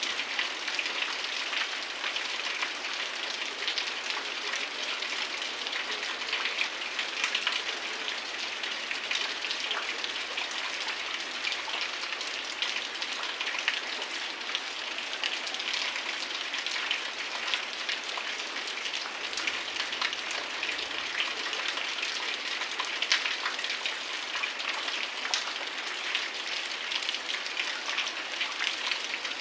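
Heavy rain falling steadily, a dense hiss of drops with many small individual drop hits throughout.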